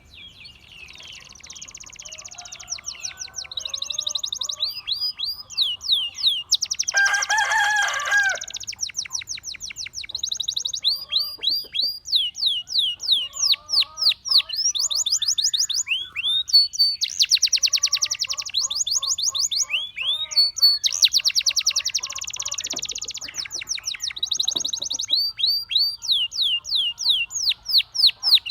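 Gloster canary singing a long unbroken song: fast trills of high, downward-sweeping notes, about ten a second, switching to a new phrase every second or two. Dense, buzzy rolls come between the phrases, with a lower, fuller roll about seven seconds in.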